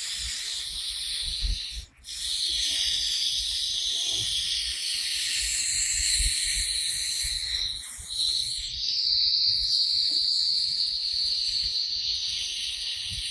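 Summer insect chorus (cicadas or crickets), a steady high-pitched drone. It cuts out for a moment about two seconds in and dips briefly about eight seconds in.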